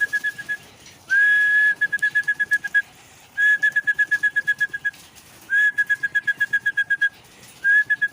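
Trilled whistle calling racing pigeons in to the loft: repeated phrases about two seconds apart, each sliding up onto one high note and then fluttering at about seven pulses a second for roughly a second and a half.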